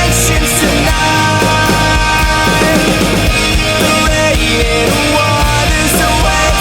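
Pop-punk band playing an instrumental passage: distorted electric guitars, bass and drums at full volume, with no vocals.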